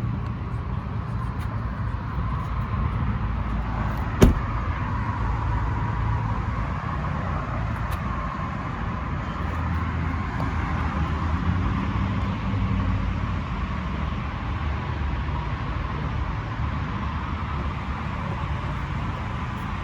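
Ford 6.7L Power Stroke V8 turbo diesel running steadily, a low rumble with a steady higher hum above it. One sharp click sounds about four seconds in.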